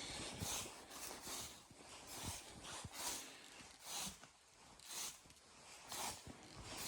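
Footsteps crunching in snow, about one step a second, faint.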